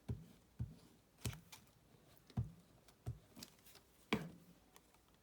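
Paper and craft materials being handled on a work table: a handful of light, separate clicks and taps, spaced about half a second to a second apart.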